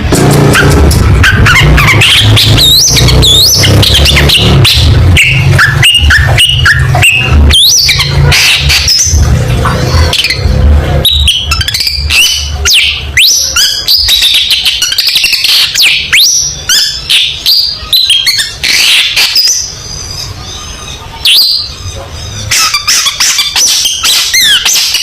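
Long-tailed shrike (cendet) singing loudly and without pause: a fast, varied stream of sharp whistled glides, harsh chatter and clicks. A low rumble runs underneath for the first ten seconds or so.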